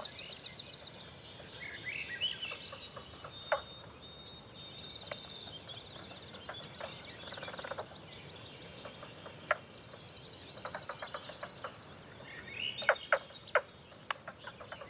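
Several wild birds singing: rapid high trills repeated every second or two, mixed with short chirps and sharp click-like calls scattered throughout.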